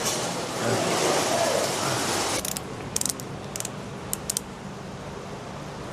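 Welding on a steel exhaust pipe: a burst of noisy hiss that cuts off sharply about two and a half seconds in, followed by several sharp clicks.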